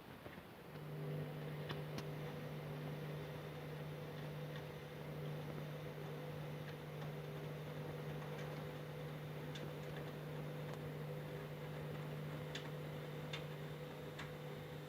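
Candy washing machine starts up about a second in and runs with a steady, even-pitched hum, with a few faint clicks scattered through.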